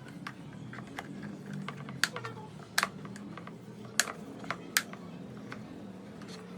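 Table fan running with a steady low hum, with a few sharp clicks and taps between about two and five seconds in.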